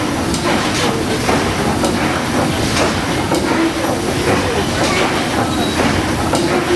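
Steam boat engine running, with a regular beat of mechanical strokes about every half second over a steady clatter.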